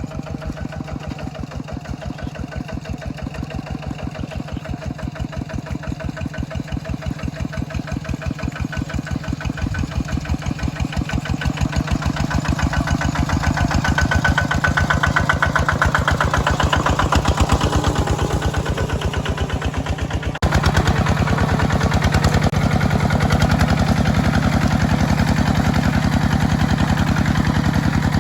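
Mini tractor's engine running with a steady, even pulse as it works pulling a plow through the wet field, growing gradually louder. About twenty seconds in it breaks off for an instant and comes back louder.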